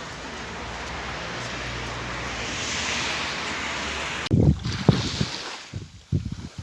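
Sea surf breaking and washing up a beach, swelling to a peak about three seconds in. It cuts off about four seconds in and gives way to wind buffeting the microphone in gusts.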